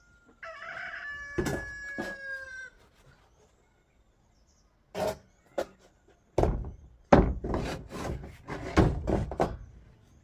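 A rooster crowing once, a drawn-out call ending in a long, slightly falling note. Starting about halfway through comes a run of irregular knocks and thuds.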